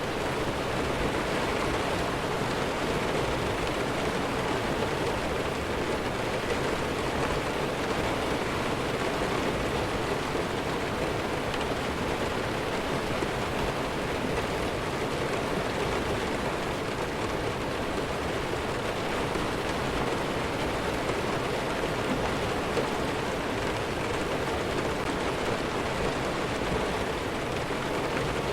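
Heavy rain falling steadily, an even hiss that holds without a break.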